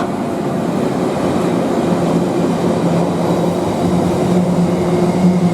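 Freight train hauled by a pair of Class 90 electric locomotives running through: steady rumble of wheels on rail, with a low steady hum coming in about two seconds in.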